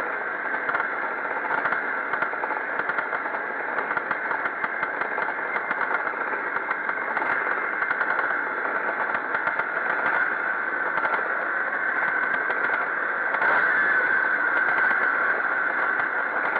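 Pre-1965 motocross motorcycle engines running on the race track, a steady, continuous engine sound with a fast firing crackle, growing a little louder about thirteen seconds in.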